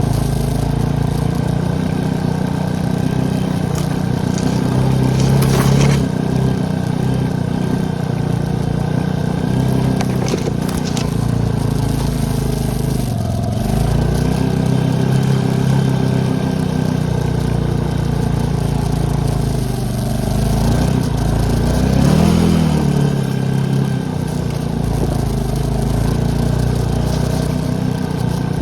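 ATV engine running while riding, its note dropping and climbing a few times as the throttle eases off and opens again, with a few short knocks.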